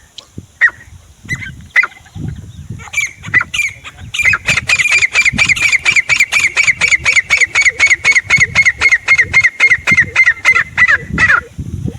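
Grey francolin calling: a few separate shrill notes, then from about four seconds in a fast, even run of ringing notes, about five a second, that stops abruptly about a second before the end.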